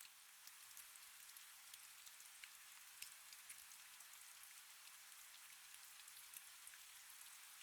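Faint, steady rain: a soft hiss with many small drops pattering.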